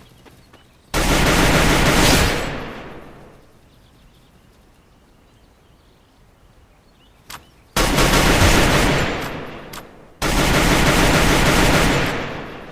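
Three loud bursts of rattling noise, each starting suddenly and fading over a second or two: one about a second in, then two close together in the second half.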